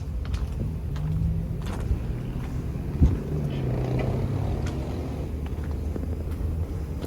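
Truck diesel engine idling steadily, with a single sharp knock about three seconds in.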